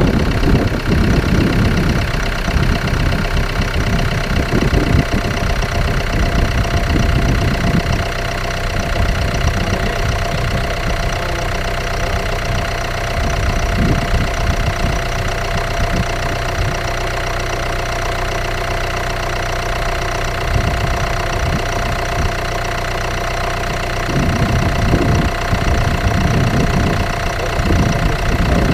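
Ford S-Max 2.2 TDCi four-cylinder common-rail turbodiesel idling with diesel knock just after a very cold start at about -15°C. It runs rough and uneven for the first several seconds, settles to a steadier idle, and turns rough again near the end, with a steady whine over the top.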